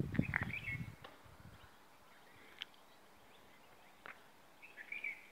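Birds chirping now and then outdoors, with a short high call about half a second in and another near the end. Low thumps and rustling in the first second and a half, from walking with the phone.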